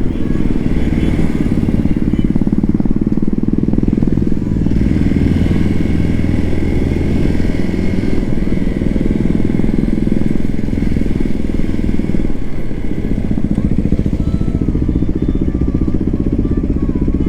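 Hero XPulse 200 4V's single-cylinder engine running through an aftermarket SC Project exhaust, a steady loud pulsing exhaust note with a brief dip about twelve seconds in.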